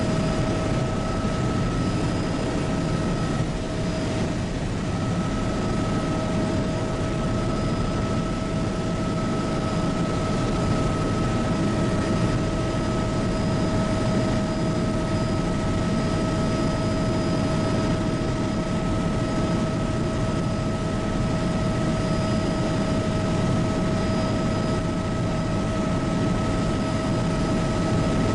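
Bell 206B JetRanger helicopter in flight: a steady turbine whine over a deep, even rumble from the rotor and engine.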